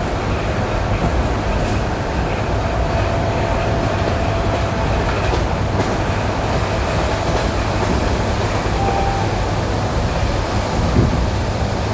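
ED9E electric multiple unit running, heard from inside the passenger car: a steady rumble of wheels and running gear with a faint steady whine. About eleven seconds in, a single louder knock stands out, the kind of wheel-on-rail-joint knock heard on jointed track.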